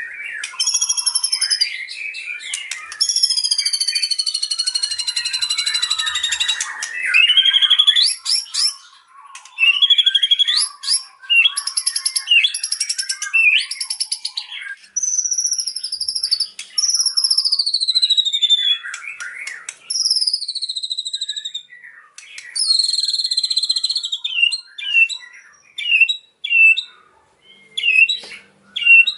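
White-rumped shama (murai batu) singing a loud, varied song of fast rattling phrases, clear whistles and long falling whistled glides, breaking into short separate notes near the end.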